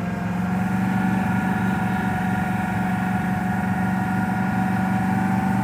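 Dodge Dakota pickup's engine running steadily at raised RPM, brought up a little about half a second in, while water mist is sucked into the air intake to steam-clean the catalytic converters.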